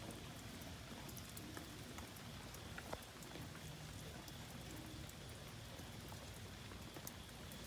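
Steady rain falling, with scattered drips and patters of drops.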